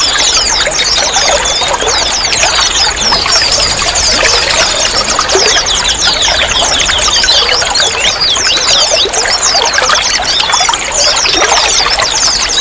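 Running water trickling and splashing without a break, thick with quick high plinks and gurgles.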